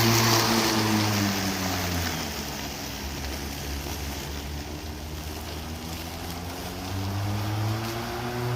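Hart 20V cordless push mower's electric motor and blade running as it cuts tall grass at a lowered deck height. Its hum sinks in pitch and level over the first two seconds as it slows under the load, then climbs back near the end as it speeds up again.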